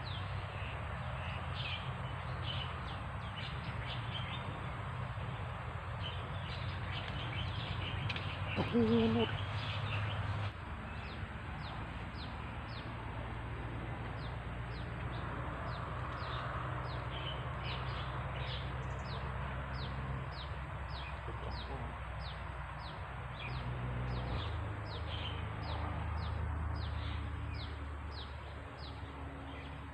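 Birds calling outdoors: one bird repeats a short, high, downward-sweeping call over and over, about one to two times a second, densest in the second half. A louder, lower, clucking call sounds briefly about nine seconds in, and a steady low hum runs underneath.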